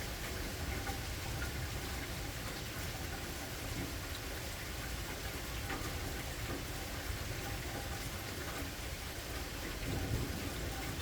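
Steady rain falling, with scattered drops ticking on surfaces and a low rumble underneath.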